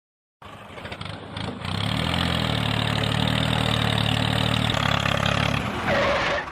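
Engine of a mini DIY bulldozer starting up and running. It comes in faintly about half a second in, builds over the next second or so to a steady run, changes briefly near the end and then cuts off.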